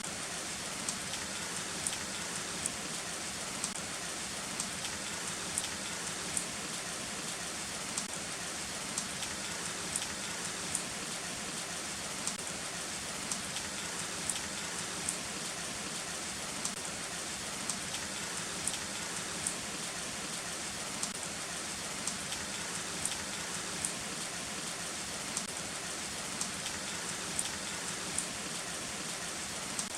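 Heavy rain falling steadily, a continuous hiss with sharp drips ticking irregularly over it, about two a second.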